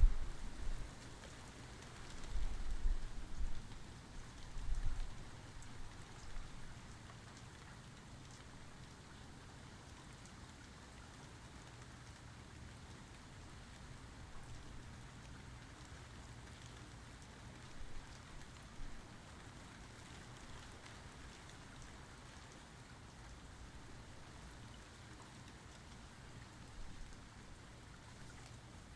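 Steady rain falling. A sharp thunder crack comes right at the start, followed by low rumbles of thunder over the next several seconds; the rain then goes on alone with only faint distant rumbles.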